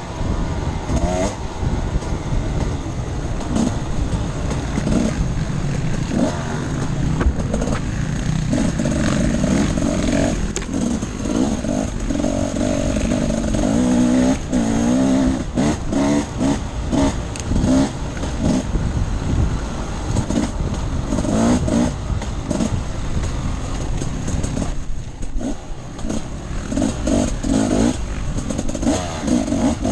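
Off-road dirt bike engine running under constantly changing throttle, its pitch rising and falling as it revs up and eases off, over a steady rough noise.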